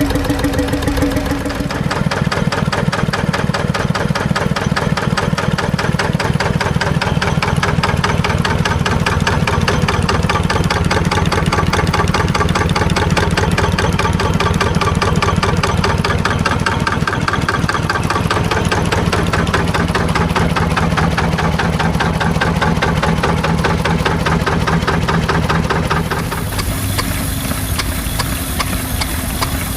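Stationary engines running with a rapid, regular mechanical clatter. The sound changes abruptly about a second and a half in and again near the end.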